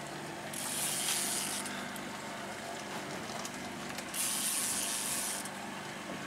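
Steady hum of the fishing boat's motor at trolling speed, with two rasping hisses of about a second each, one near the start and one about four seconds in.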